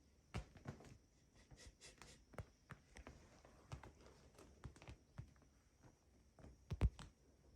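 Cats moving about on a hard floor: scattered soft taps and thumps of paws, with a louder double thump near the end.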